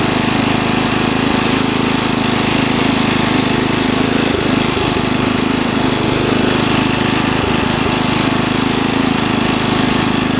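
Lawn tractor engine running steadily, loud and unchanging.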